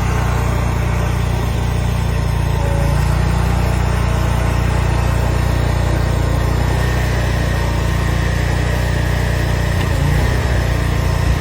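Mini skid steer loader's engine running steadily.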